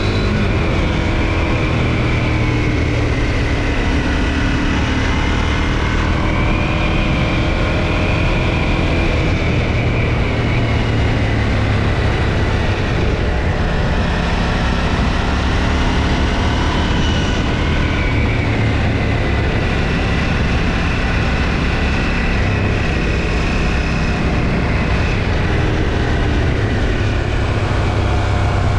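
KTM 790 Duke's 799 cc parallel-twin engine with stock exhaust, running under way at cruising speed. Its pitch rises and falls gently with the throttle, and steady wind and road rush lies under it.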